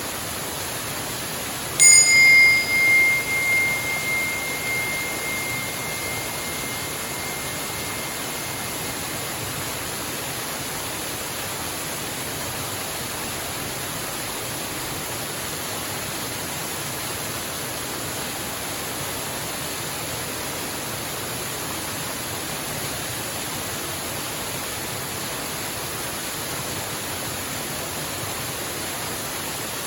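Waterfall rushing steadily, with a single struck bell about two seconds in as the signal for the meditation to begin. The bell's high ring wavers as it fades over several seconds.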